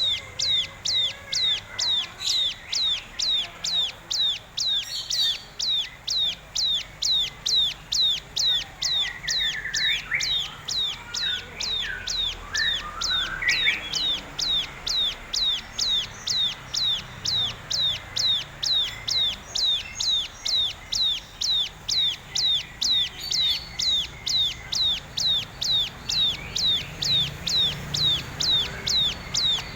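A bird repeating one short, high, downward-sliding note over and over, about two to three times a second, without a break. Other fainter chirps come in briefly about halfway through.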